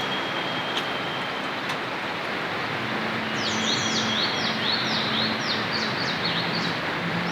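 Steady rain. About halfway through, a bird sings a quick series of about ten high, downward-slurred notes.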